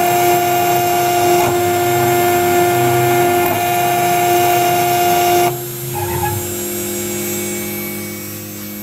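CNC metal engraving router running with a steady whine and cutting noise. About five and a half seconds in, the cutting noise cuts off suddenly and the level drops, leaving a lower steady hum.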